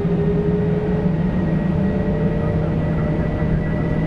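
Airbus A320 jet engines spooling up to takeoff thrust, heard inside the cockpit: a loud, steady hum and drone with a tone that rises slightly in pitch.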